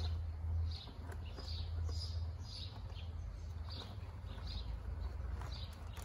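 A bird chirping over and over, a short high chirp every second or so, over a steady low hum; a plastic dry sack rustles faintly as it is rummaged through.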